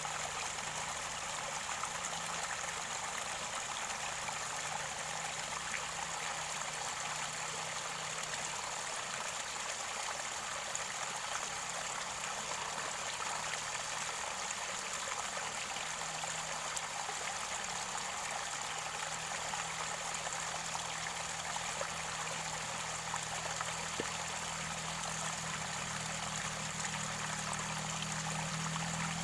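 Mountain stream water gurgling and rushing steadily at its spring source, with a constant low rumble underneath.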